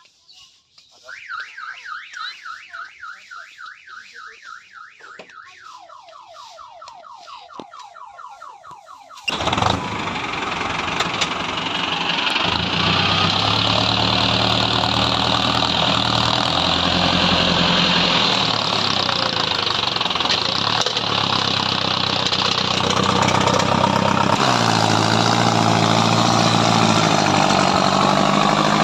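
A tractor harvester's diesel engine being cranked by its starter, a rhythmic whirring that drops lower partway through, until it catches about nine seconds in. It then runs loudly, its revs stepping up and down.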